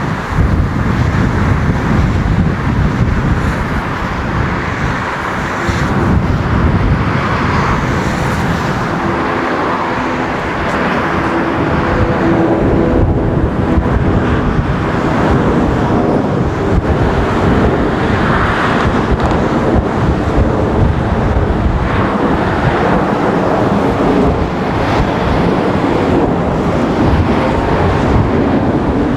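Four CFM56 jet engines of a Lufthansa Airbus A340-300 running with a loud, steady rumble and faint whine, mixed with road traffic noise.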